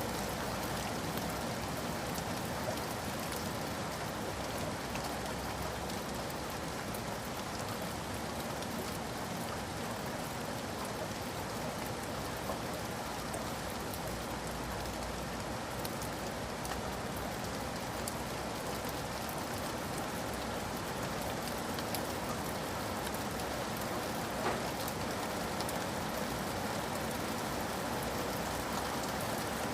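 Steady rain falling, an even hiss with scattered individual drops tapping, one a little louder near the end.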